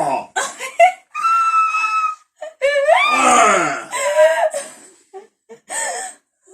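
A person screaming and wailing in disgust at a taste: a held high cry, then several long rising and falling wails, broken by short gasps.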